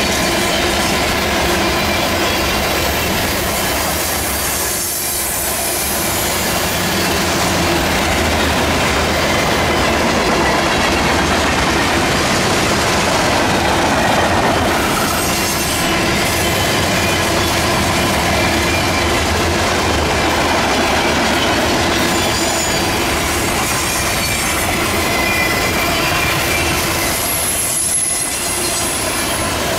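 Freight train cars (covered hoppers, tank cars and flatcars) rolling past close by: steel wheels running and clattering over the rail joints in a loud, steady rumble. Faint, thin wheel squeals come and go in the second half.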